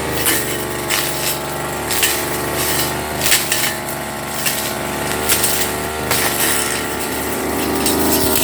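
Petrol brush cutter running at a steady high speed, with irregular sharp clicks as the cutting head strikes grass and debris.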